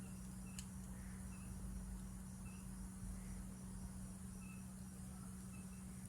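Insects chirping: a steady high trill with short, scattered chirps over it, above a low steady hum. A single sharp crackle from a campfire comes about half a second in.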